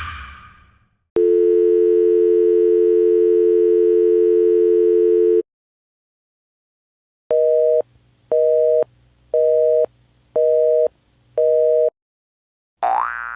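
Telephone dial tone held steady for about four seconds, then after a short pause a telephone busy signal, five beeps about a second apart. A rising, springy boing effect starts near the end.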